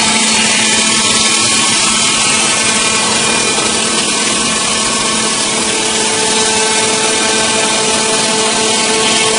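Engine-driven saw running steadily at high speed while cutting wood, a loud hiss over a steady engine hum; a second, higher hum joins about halfway through.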